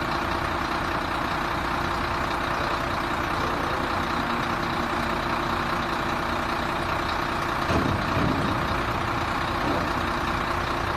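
Sinotruk HOWO 6x4 tipper truck's 371 hp diesel engine running steadily, with a brief low thump about eight seconds in.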